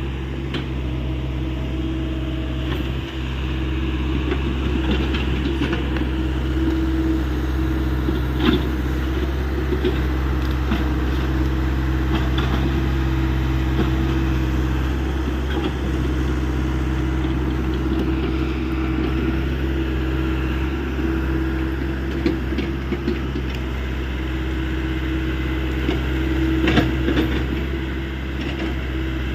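Hyundai 85 excavator's diesel engine running steadily while it works, with a few sharp knocks, the clearest about eight seconds in and near the end.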